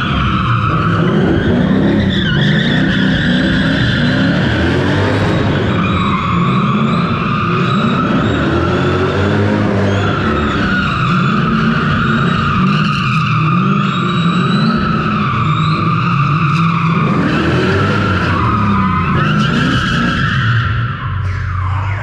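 Straight-piped V8 drift cars revving up and down while their tyres squeal in long, wavering screeches, as in drifting on a slippery floor.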